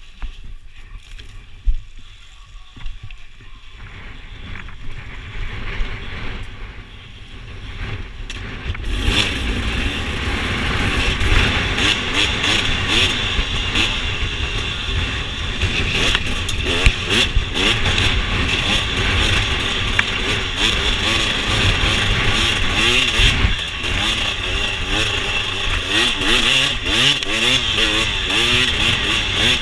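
Dirt bike engine, quiet at first, growing louder from about four seconds in, then running hard from about nine seconds with revs rising and falling as it rides the trail.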